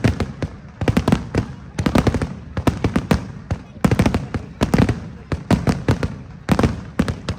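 Fireworks display bursting overhead: rapid clusters of sharp bangs, several a second, in bursts that come and go, stopping near the end.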